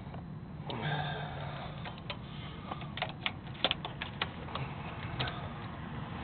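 Irregular light clicks and taps of hand handling: the camera being moved and small parts and tools being handled. There are about a dozen sharp ticks spread unevenly, with a brief rustle about a second in.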